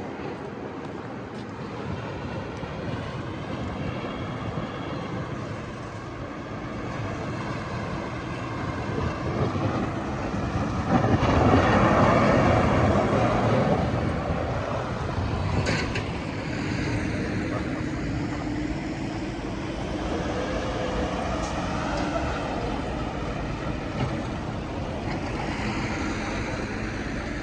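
Street traffic with a city snow plow truck passing. Its engine and road noise grow to a loud peak about halfway through, then ease back to a steady hum.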